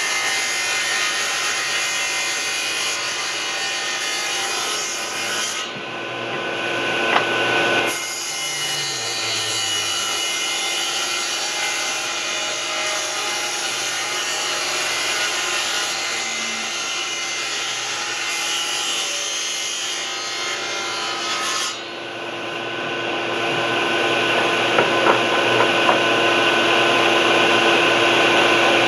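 An electric power tool working wood: a steady motor tone under dense noise from the cut or sanded wood. The sound changes character twice, about six seconds in and again about twenty-two seconds in.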